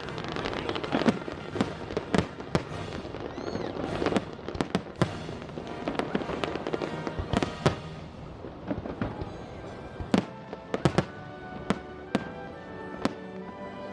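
Aerial fireworks display: a rapid, irregular series of sharp bangs and crackles, several a second, with music playing along and coming through more clearly near the end.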